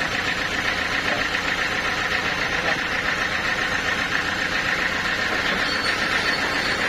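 Sawmill machinery running steadily: a constant mechanical drone with a low hum and an even hiss that doesn't change.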